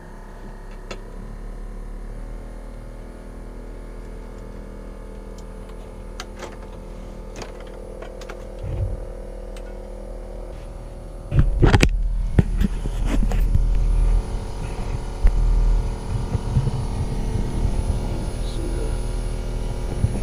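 Geothermal heat pump unit running with a steady mechanical hum. About eleven seconds in, a much louder low rumble joins in, with a few clicks and knocks.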